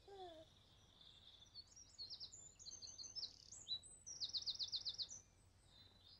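Birds chirping and trilling, with a quick run of about eight falling chirps near the end; a brief falling tone sounds right at the start.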